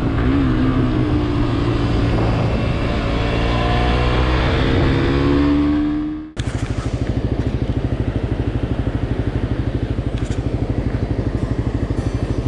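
Suzuki GSX-S125 motorcycle's single-cylinder engine running under way, with wind rushing over the microphone and the engine note climbing. About six seconds in, the sound cuts abruptly to the engine idling with an even, rapid pulse and no wind.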